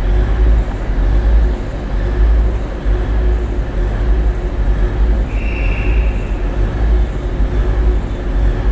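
Class 185 diesel multiple unit's engines running with a deep, steady rumble as the train gets ready to depart. A short high tone sounds about five seconds in.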